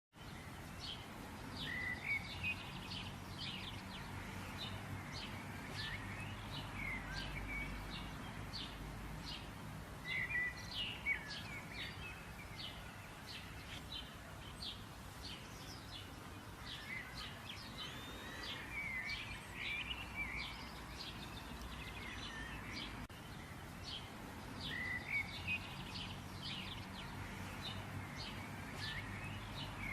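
Birds chirping and calling: a dense run of short chirps throughout, with louder bursts of song every several seconds, over a low, steady background rumble.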